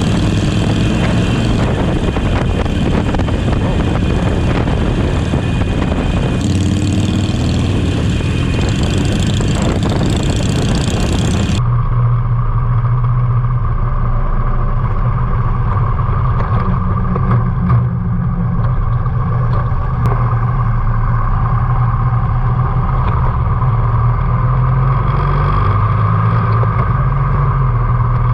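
Harley-Davidson motorcycle engine running steadily at cruising speed, with heavy wind rush on the helmet or bike-mounted camera's microphone. About twelve seconds in, the sound changes abruptly to a steadier, duller engine note with much less wind.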